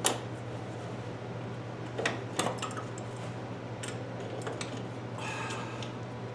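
Scattered light metallic clinks and taps of tools against metal: a few sharp ones about two seconds in, another near four seconds and a short ringing clink a little after five, over a steady low hum.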